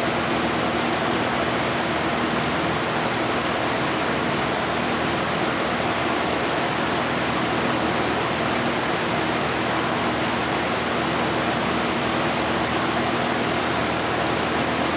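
Steady rushing air with a faint low hum from a running fan, holding an even level throughout.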